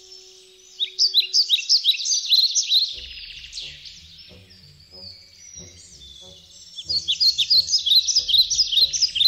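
Bird chirping: rapid runs of short, high chirps in two bouts, one starting about a second in and a louder one from about seven seconds. A low, rhythmic beat of background music comes in about three seconds in.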